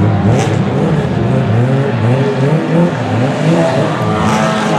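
Touring race cars accelerating hard. The engine note climbs and drops back again and again through quick gear changes, with more than one engine heard at once.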